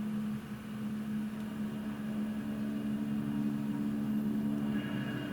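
Helicopter running with a steady hum and a noisy rush over it.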